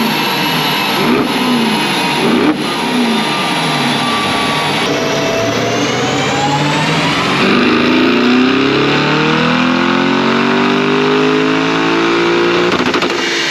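Tuned Audi RS6 engine and exhaust at full throttle on a chassis dyno, run up through the gears with brief breaks at the changes, then held for a long pull with the pitch rising steadily for about eight seconds.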